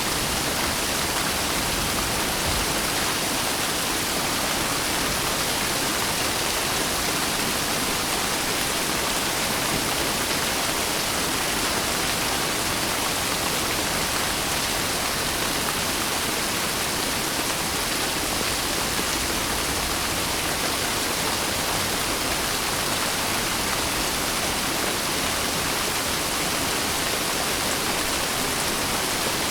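Steady heavy rain falling, an even hiss with no separate drops or thunder standing out.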